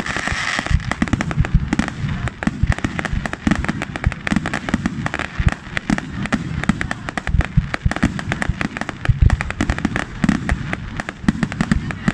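Fireworks going off in rapid, continuous succession: many sharp crackling reports packed close together, with heavier low bangs among them.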